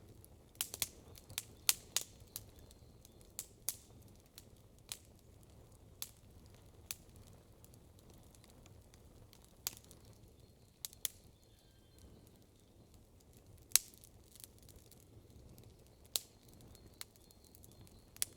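Wood campfire crackling: irregular sharp pops and snaps over a low steady background, with a quick run of them in the first couple of seconds and one loud pop near the middle.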